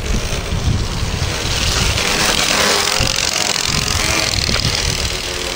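Push bike being ridden, with playing cards clipped to the frame flapping against the turning spokes in a fast, steady rattle, and wind noise on the microphone.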